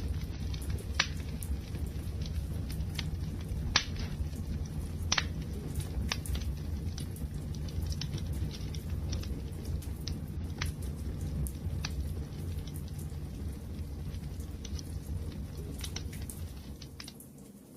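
Wood fire crackling: irregular sharp pops and snaps over a steady low rumble of the flames. The sound dips briefly near the end.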